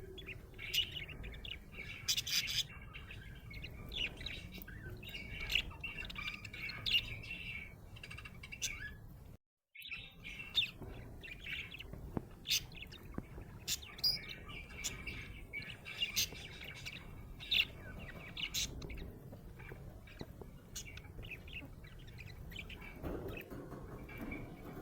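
Budgerigar chirping and warbling in quick, busy runs of short high chirps with occasional squawks, broken by a brief gap about nine and a half seconds in.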